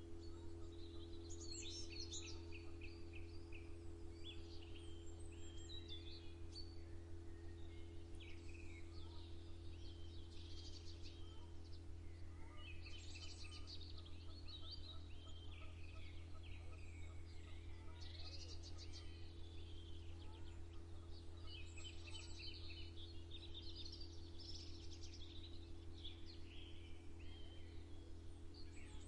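Songbirds singing and chirping in bursts every few seconds, over a steady low hum.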